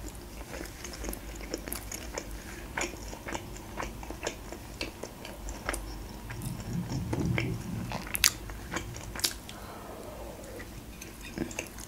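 A person chewing and eating meat-filled gyurza dumplings: many small wet mouth clicks and smacks scattered throughout.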